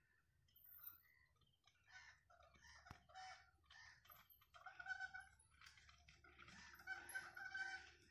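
Faint bird calls: a string of short repeated notes, busiest in the second half.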